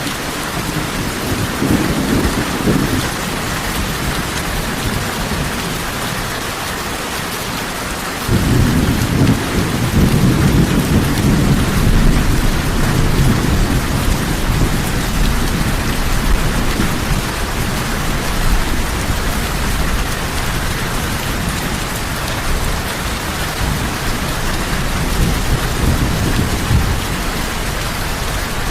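Heavy rain falling steadily, with low rolls of thunder; a long rumble of thunder sets in abruptly about a third of the way through.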